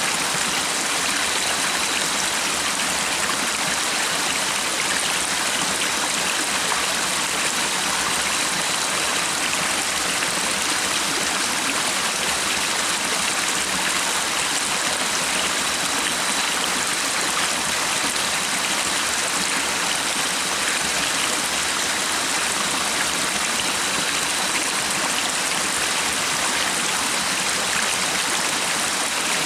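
Stream water flowing in a steady, unbroken rush, with a faint steady high tone underneath.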